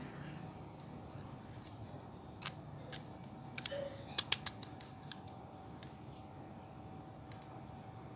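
Sharp metallic clicks and snaps as piston rings are worked onto an Isuzu 4JB1 diesel piston. A few single clicks come first, then a quick run of three loud clicks about four seconds in, followed by fainter ones.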